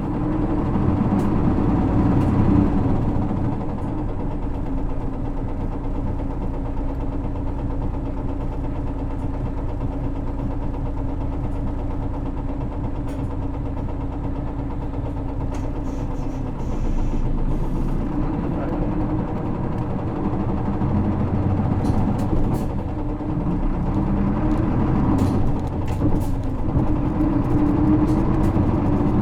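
Isuzu LV234L2 city bus's 6HK1 inline-six diesel heard from inside the bus as it pulls away and drives on. The engine note changes about three seconds in, again around the middle, and near the end, as it works through its five-speed manual gearbox.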